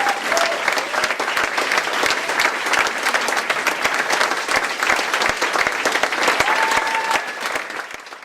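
Audience applauding: dense hand-clapping, with a short, steady, whistle-like high tone about six and a half seconds in. The clapping fades out at the very end.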